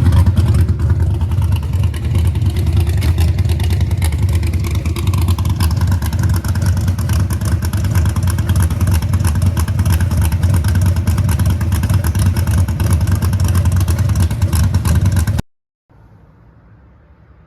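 496 cubic-inch big-block Chevrolet V8 in a 1978 Pontiac Trans Am running steadily through fender-exit exhausts. The sound cuts off suddenly about 15 seconds in, leaving only a faint hiss.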